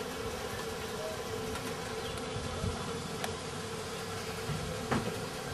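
Steady buzzing engine drone with a low rumble under it, and a faint click about three seconds in.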